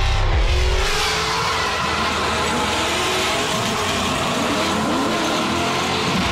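Drift car engine at high revs, its pitch wavering up and down as the car drifts, over tire noise.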